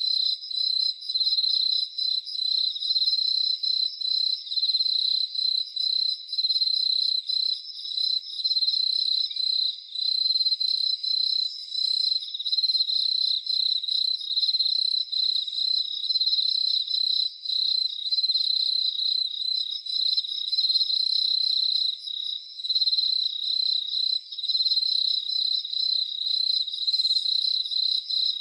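Crickets chirping in a steady high trill, broken by short pauses every second or two.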